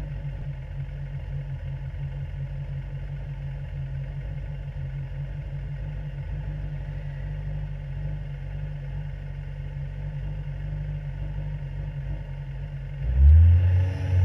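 Sprint car's engine idling steadily at about 1,400 rpm in first gear, then revved up about a second before the end and held near 2,700 rpm, building revs for the standing start.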